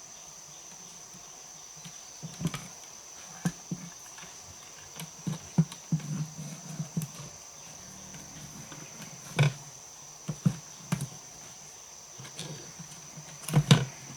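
Irregular knocks and taps, the loudest about two-thirds of the way in and a cluster near the end, over a steady high-pitched whine.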